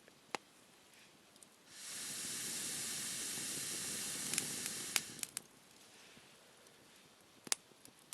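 Wood fire crackling with a few sharp pops, and about two seconds in a steady hiss starts abruptly, holds for about three seconds and fades: gas or steam jetting from a burning log.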